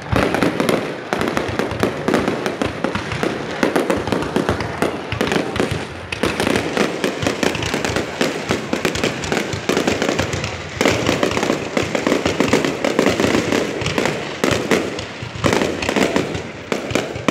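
Aerial fireworks shells launching and bursting one after another in a dense, unbroken barrage of bangs.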